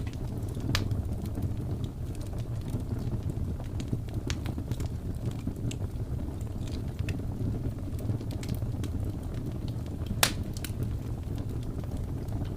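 Wood fire crackling in a fireplace: scattered sharp pops and snaps over a steady low rumble, with one loud pop near the end.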